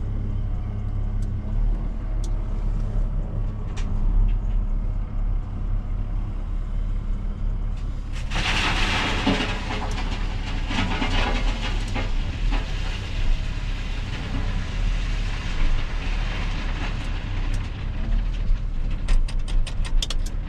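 Heavy loading machine's diesel engine running steadily. For about four seconds midway comes a loud rushing, rattling noise of coarse 0-90 gravel pouring into a truck bed. A run of quick clicks follows near the end.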